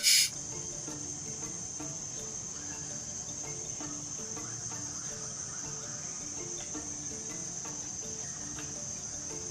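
Steady, high-pitched insect chorus, a continuous drone with no break.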